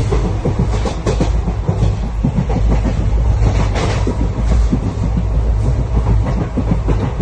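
Moving train running on the rails: a steady heavy rumble with the clickety-clack of wheels knocking over rail joints.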